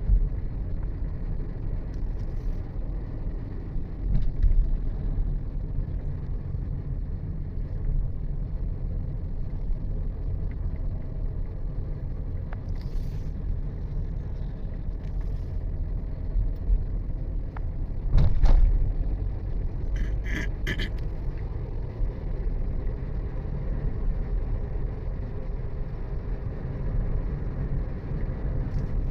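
Steady low rumble of a vehicle driving along a road, with a sharp knock about two-thirds of the way in and a few short higher sounds just after.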